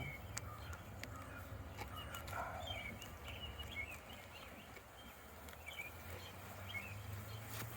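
Low steady hum of honeybees around an opened hive, with faint bird chirps and a few sharp clicks in the first two seconds as a comb-stuck hive frame is worked loose.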